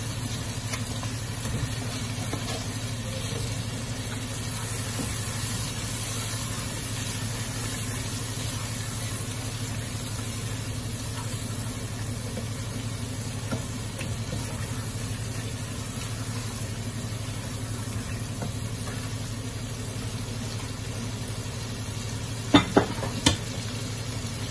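Potato chunks frying in onion-tomato masala in a pot, a steady sizzle as a spoon stirs them through. Near the end come two sharp knocks, the spoon against the pot.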